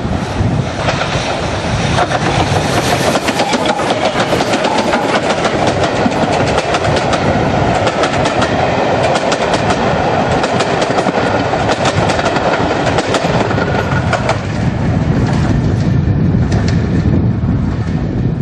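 A train passing close by, its wheels clattering over the rail joints in a dense, steady run of clicks that fades near the end.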